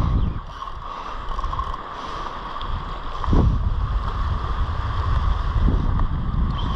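Wind buffeting the microphone in uneven gusts, with the wash of surf behind it.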